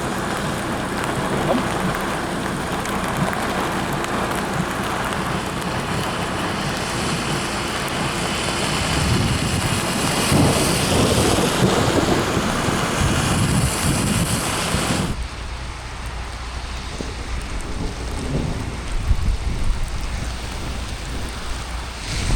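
Thunderstorm: steady rain with wind and low rolling thunder. The rain hiss swells from about eight seconds in, then drops away suddenly at about fifteen seconds, leaving mostly the low rumble.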